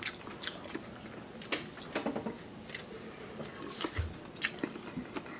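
Close-up chewing of food, with scattered wet mouth clicks, and a soft low thump about four seconds in.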